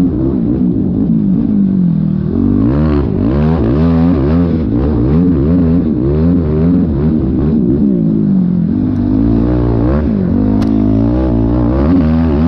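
Yamaha YFZ450R quad's single-cylinder four-stroke engine revving hard and rising and falling in pitch every second or so as the throttle is worked on and off over rough ground.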